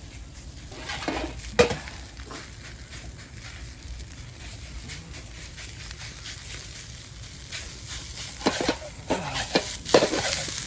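Fried rice sizzling in a large iron frying pan over a wood fire as it is stirred, with a sharp scrape about a second and a half in and a run of scraping strokes near the end.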